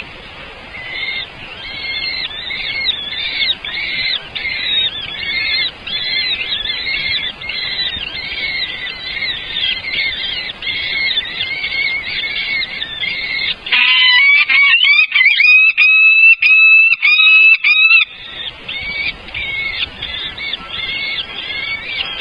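Nestling birds begging: a rapid, unbroken run of high, repeated chirps. Past the middle come a few seconds of louder, clearer calls, and then the chirping resumes.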